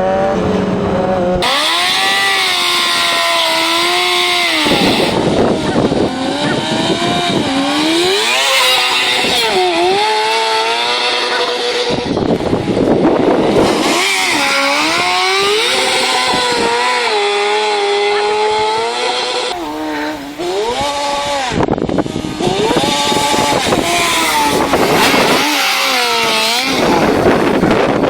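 Honda CBR600RR inline-four sportbike engine revving hard, its high-pitched exhaust note climbing and dropping again and again. The sound breaks off and starts afresh several times.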